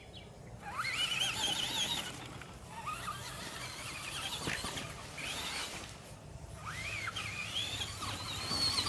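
Electric motor of a Traxxas radio-controlled truck whining in several stretches, its high pitch rising and falling as the throttle is worked.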